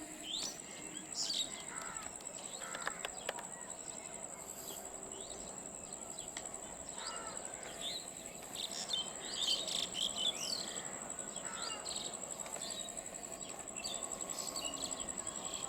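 A steady high-pitched insect trill, like crickets, with birds chirping and calling over it, louder in bursts around the middle.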